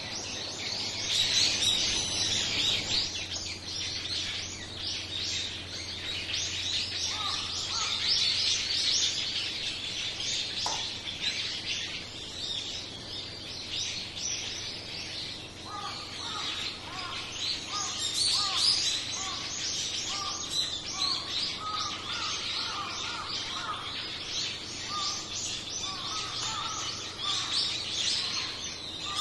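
A flock of small songbirds chirping, many high calls overlapping without a break. About halfway through, a lower call of short repeated notes joins in.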